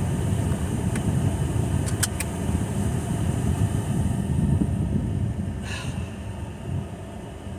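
Steady rumble and rush of air inside a car's cabin, its air conditioning turned up as high as it will go, with a few faint clicks.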